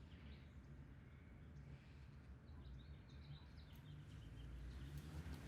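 Near silence: quiet room tone with a low hum and faint, scattered bird chirps in the background.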